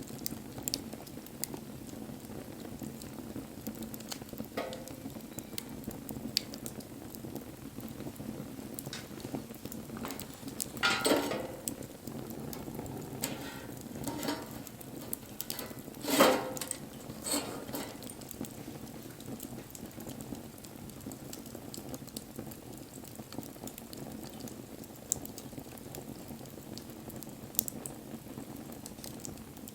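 Wood bonfire burning with a steady low rushing sound and scattered crackles and pops. There are two louder bursts of crackling about eleven and sixteen seconds in.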